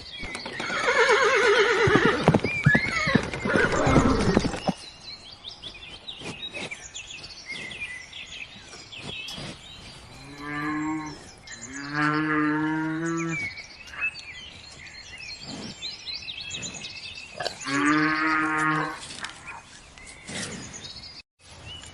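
A cow mooing three times, each moo a steady, low, drawn-out call. Before the moos, during the first four seconds, there is a louder, rough sound with wavering pitch.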